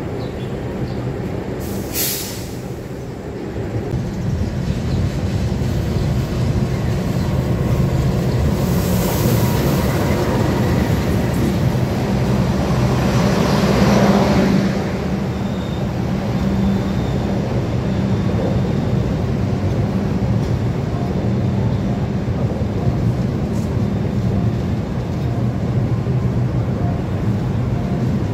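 KAI CC 206 diesel-electric locomotive pulling an arriving train in along the platform, its engine running with a steady low hum that grows louder as it approaches and is loudest as it passes about halfway through, then the coaches rolling by. A short sharp click comes about two seconds in, and a hiss of brakes around the middle.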